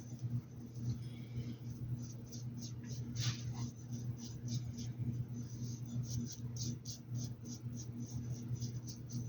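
Paintbrush working paint onto a fabric hat: short scratchy strokes and dabs, several a second and busier in the second half, over a steady low hum.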